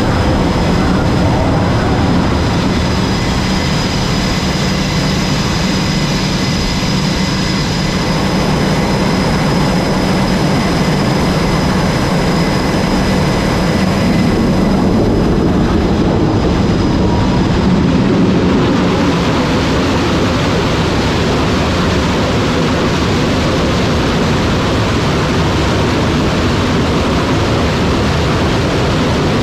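Jet aircraft engines running loud and steady, with a thin high whine that fades out about eighteen seconds in.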